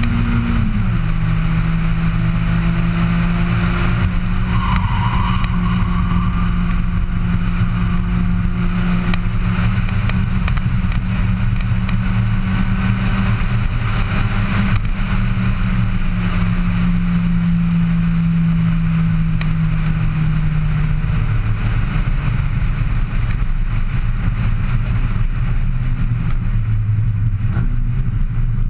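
Abarth 500 Evo2 race car's engine heard from on board, running at steady high revs with road and wind noise. The engine note drops about a second in, holds with small shifts, then falls to lower, rougher revs about twenty seconds in.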